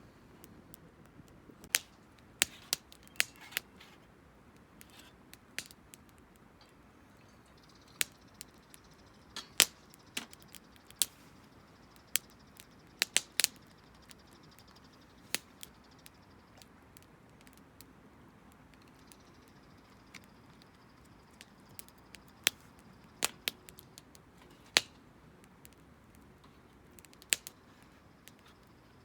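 Burning firewood crackling, with sharp, irregular pops and snaps a second or two apart, some much louder than others.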